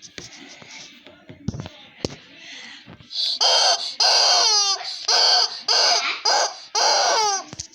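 A young child squealing in about six loud, high-pitched bursts starting about three seconds in, some sliding down in pitch at the end. Light knocks and rustling come before them.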